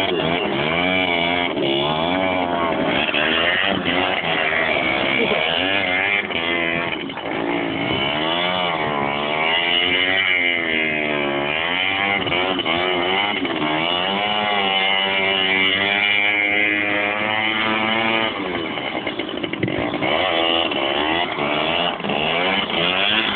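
Motocross motorcycle engines running hard, their pitch rising and falling again and again as the riders open the throttle and shift through the gears, sometimes with more than one bike heard at once.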